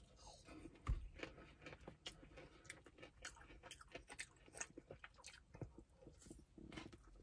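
Faint close-up chewing and biting of a double cheeseburger: irregular soft wet mouth clicks and smacks, with the loudest snap of a bite about a second in and another bite near the end.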